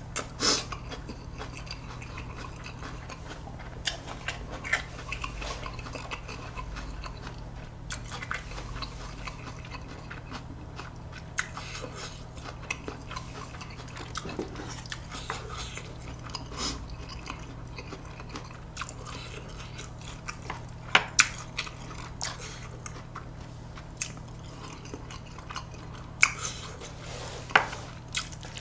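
A man chewing mouthfuls of spicy Buldak stir-fried noodles, with scattered short clicks and taps of chopsticks and dishes, over a steady low hum.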